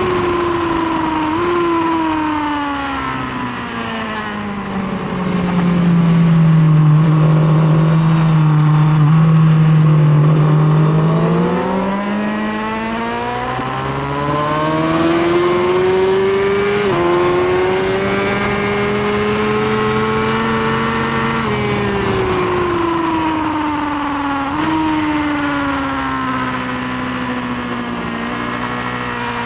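2018 Suzuki GSX-R1000R's inline-four engine on a track lap. Revs drop under braking with a blipped downshift about a second and a half in, hold low for several seconds, then climb hard. There is an upshift about seventeen seconds in, and near the end the revs fall again under braking with another downshift.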